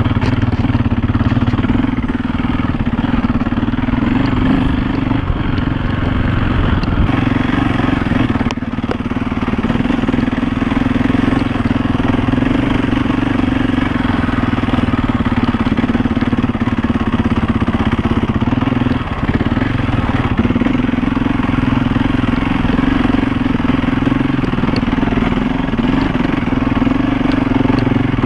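KTM 450 EXC single-cylinder four-stroke enduro engine running under load on a rough dirt trail, a steady engine note that eases off briefly twice.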